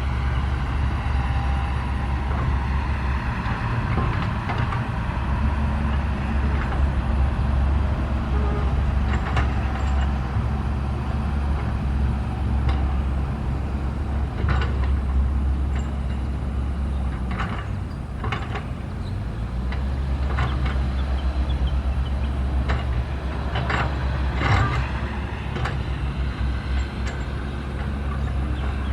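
Diesel engine of a SANY SY135F excavator running steadily while it digs and loads soil, with a brief drop in engine note about two-thirds of the way through. Several sharp knocks ring out now and then over the engine.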